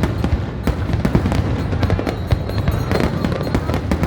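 Fireworks going off: a dense, irregular run of sharp cracks and pops, several a second, over a steady low rumble.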